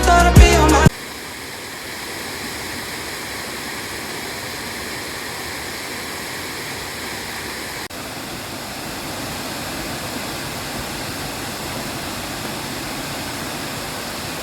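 Background pop music cuts off about a second in, giving way to a waterfall's steady, even rush of falling water.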